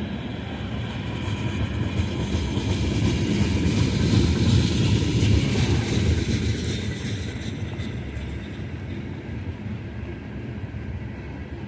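Loaded oil train's tank cars rolling past: a steady low rumble and clatter of wheels on rail that swells about halfway through and then eases, with heavy rain hissing.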